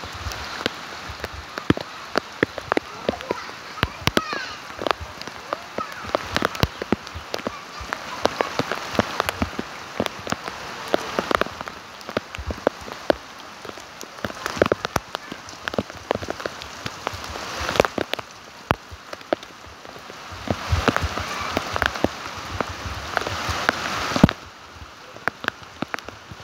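Rain falling, with a steady hiss and many close drops splattering. The hiss drops away suddenly near the end, leaving scattered drips.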